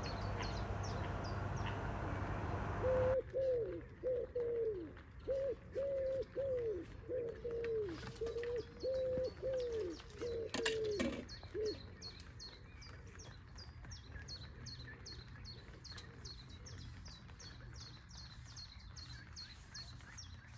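Birds calling: about a dozen short, falling low notes in quick succession for several seconds, over a small bird's high chirps repeating a few times a second. A steady noisy hiss fills the first three seconds and cuts off abruptly, and there is one sharp click about ten seconds in.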